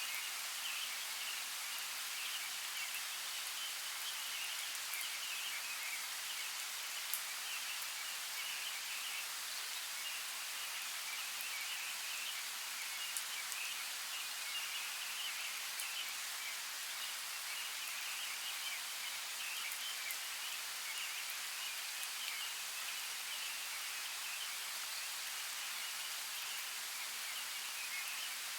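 Steady outdoor nature ambience: an even hiss with a continuous flickering, chirping texture high in pitch and a few sharp ticks.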